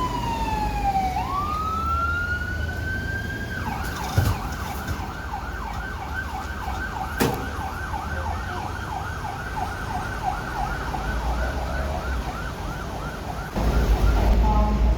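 Electronic siren of a Honda ST1300P paramedic motorcycle on an emergency run: a slow wail falling and rising, then about four seconds in switching to a fast yelp of about three sweeps a second. Near the end the siren gives way to a loud low rumble.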